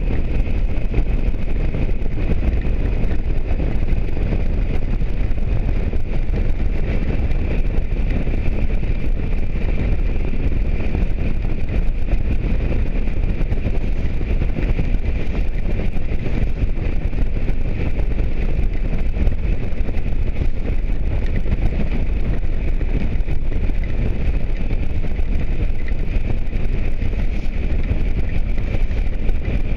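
Motorcycle in motion at a steady speed: wind rushing over the microphone mixed with engine noise, loud and unbroken, with a faint steady high whine running through it.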